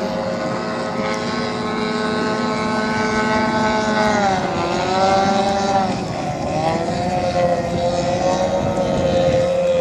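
Racing outboard motors on boats running at speed, a high, steady buzz. Its pitch drops about four seconds in and climbs back about two seconds later.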